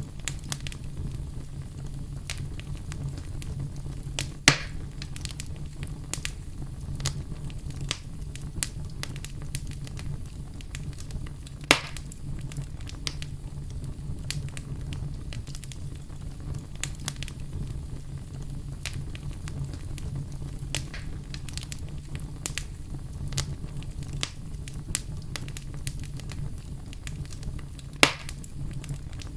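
Wood fire crackling: many small snaps over a steady low hum, with three louder pops about four and a half seconds in, about twelve seconds in and near the end.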